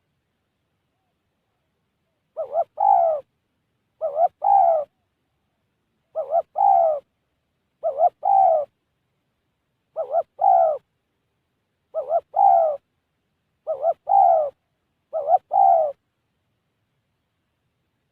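Spotted dove cooing: the same short phrase, a couple of quick notes running into a longer coo, repeated eight times at about one every two seconds.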